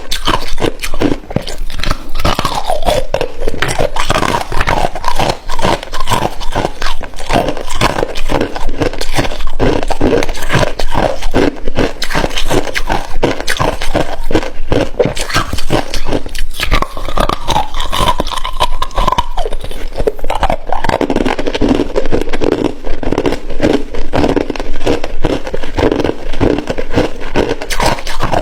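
Hard ice being chewed close to the microphone: a continuous run of crunching and cracking bites.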